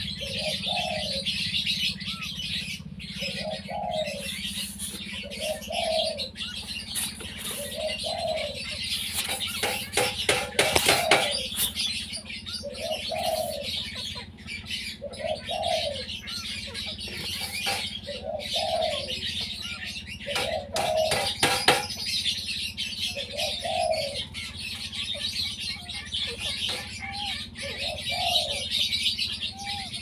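A bird's short, soft call, rising and falling in pitch, repeated about every second and a half. There is a steady high hiss under it, and bursts of rustling clicks come about ten seconds in and again about twenty-one seconds in.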